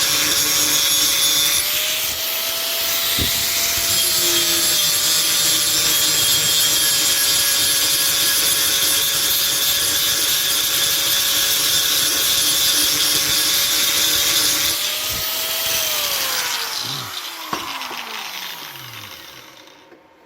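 Angle grinder grinding the metal of a welded repair, its motor whine steady under a loud grinding hiss. About 15 seconds in it comes off the work and is switched off, the whine briefly rising and then falling as the disc winds down to a stop.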